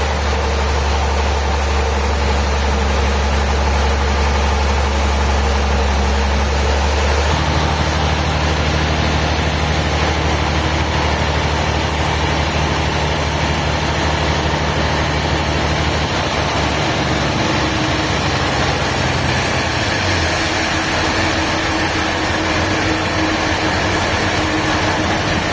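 A heavy engine or machine motor running steadily. Its low hum changes pitch about seven seconds in, and again around sixteen and twenty seconds.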